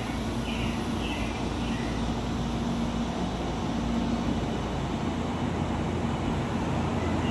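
A train standing at a station platform, a steady low rumble with a held hum, and a few faint high chirps in the first two seconds.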